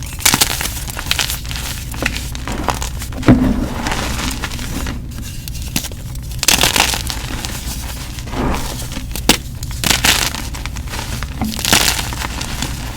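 Gym chalk being crushed and crumbled: an irregular run of crisp crunches and crumbles, the sharpest about three seconds in, over a steady low hum.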